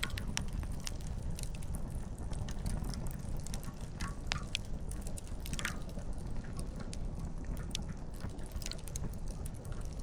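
Wood campfire burning, firewood crackling and popping with many irregular sharp snaps over a steady low rumble.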